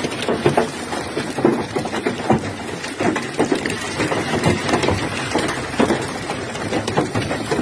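Hailstones pelting hard surfaces in a dense, irregular clatter of sharp impacts.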